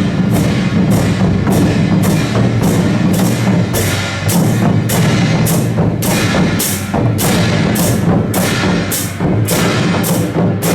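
A Taiwanese temple-procession drum troupe (Madou drums) playing a steady, loud beat, with strokes about twice a second over a continuous low drone of the drums.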